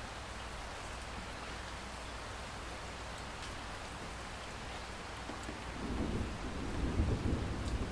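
Steady rain falling, with a low rumble of thunder rolling in about two-thirds of the way through and growing louder toward the end.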